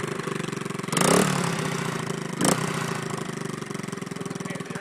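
Dirt bike engine idling steadily, with two brief louder bursts about a second in and about halfway through.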